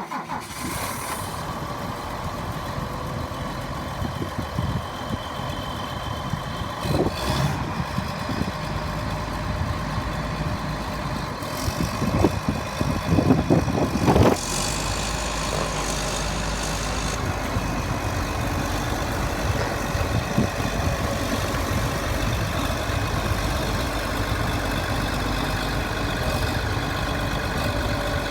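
Case IH Magnum 305 tractor's diesel engine running at idle, just after starting. It gets louder and uneven for a couple of seconds about halfway through, then settles into a steadier, heavier rumble.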